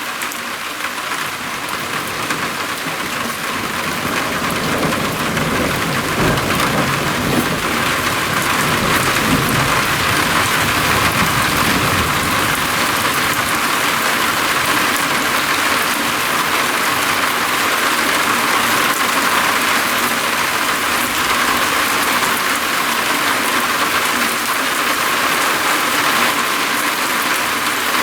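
Heavy rain falling on a roof, a dense steady hiss that grows louder over the first several seconds. A low rumble of thunder rolls in about four seconds in and fades out after several seconds.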